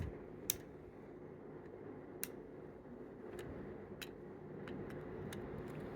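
Faint, scattered light clicks, about seven over six seconds, from a mostly plastic Flynn Jr. toy fire engine being handled and its ladder moved, over a low steady background hum.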